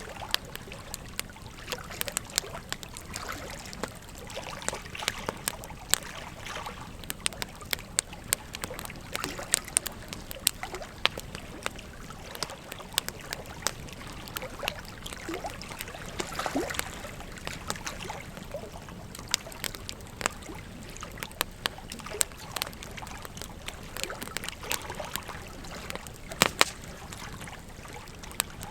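Wood fire crackling, with frequent irregular sharp pops and snaps, over the steady rush of flowing river water. A louder cluster of pops comes near the end.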